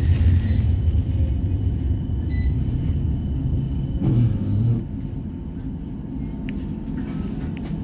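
West Midlands Metro tram (a CAF Urbos 3) running on its rails, heard from inside the saloon: a steady low rumble of traction motors and wheels. It eases off about five seconds in as the tram slows for its next stop.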